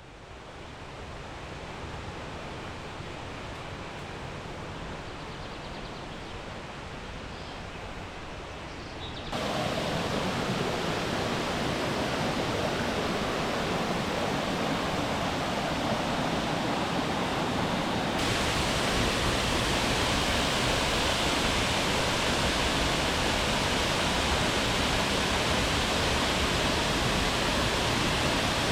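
Steady rushing of a jungle waterfall, an even roar of falling water. It jumps suddenly louder about nine seconds in and turns brighter and hissier about two thirds of the way through.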